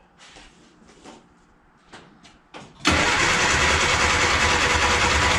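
A few faint clicks, then about three seconds in the 1960 Austin Countryman's 848 cc A-series engine is started and runs loudly with a low pulsing underneath, firing on a newly fitted ignition coil. The sound drops off sharply at the very end.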